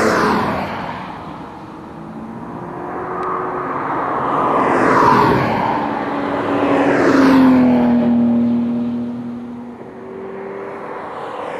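Cars driving past one after another, engines swelling as each approaches and dropping in pitch as it goes by, with several passes close together.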